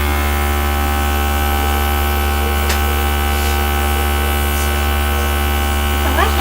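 Electric air gun running steadily: a constant motor hum with a hiss of blowing air.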